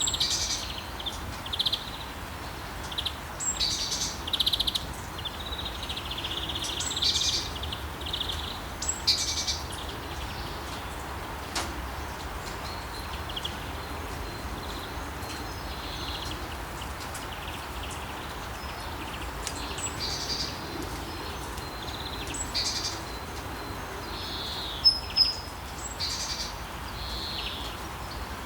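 Steady rain hissing under songbirds chirping and calling. The high chirps come in clusters over the first ten seconds and again in the last third, with two sharp, loud chirps near the end.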